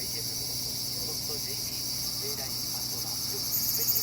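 Insects chirring steadily in a high, continuous drone. Near the end a second, louder chirr joins in with a rapid pulsing rhythm.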